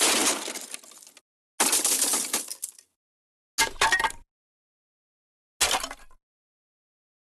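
The MGM Elephant Smash cartoon crash sound effect played repeatedly, four separate smashes with breaking, clattering debris. Each starts sharply, fades and cuts to silence. The first two last about a second, and the last two, about halfway through and near the end, are shorter.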